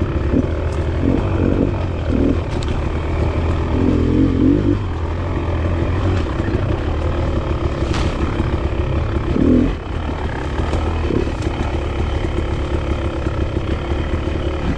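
Enduro dirt bike engine running while riding single track, the revs swelling and easing with the throttle. There is a sharp knock about eight seconds in.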